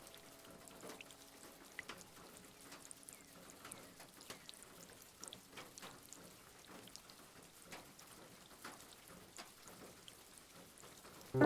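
Faint steady rain with irregular small pops and crackles of a wood fire. Piano music comes in right at the end.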